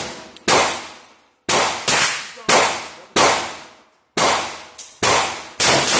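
A string of 9mm handgun shots, about eight sharp cracks in six seconds, each trailing off in echo; two come in a quick pair, fired as a double tap.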